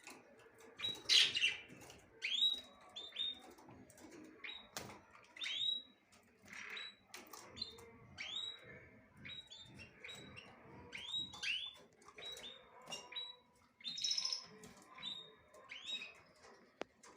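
Small birds chirping: many short, sharp chirps in quick, irregular succession, with no clear song pattern.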